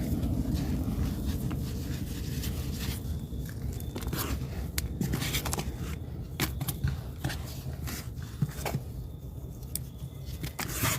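Scraping and crackling of soil and mulch being worked in a storage tote, with scattered clicks and knocks.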